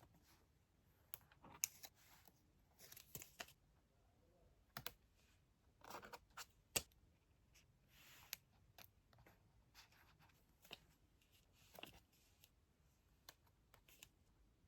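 Quiet, scattered light clicks and short rustles of small objects being handled at close range.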